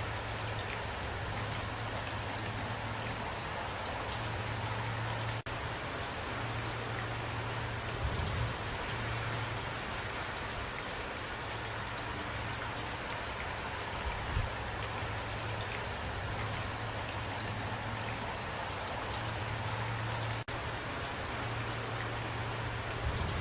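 Steady rain falling, an even hiss of drops with a few soft low thumps, over a steady low hum. The sound cuts out for an instant twice, about five seconds in and again near the twenty-second mark.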